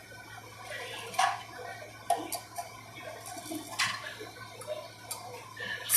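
Irregular sharp clicks and light knocks, about four clear ones with the loudest near the end, over a steady low hum.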